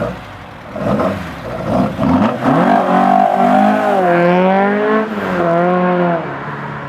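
Classic Ford car's engine revving hard as the car accelerates away: a couple of short surges, then from about two seconds in the pitch climbs, drops briefly near four seconds at a gear change, climbs again and falls off as the car pulls away near the end.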